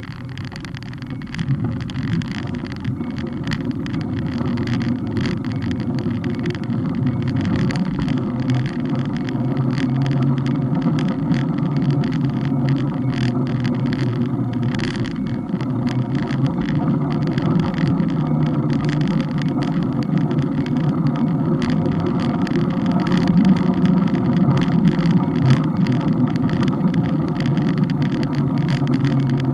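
Steady rumble of road and wind noise picked up by a camera mounted on a moving bike, thick with small rattling clicks. It grows louder over the first few seconds as the ride picks up pace, then holds steady.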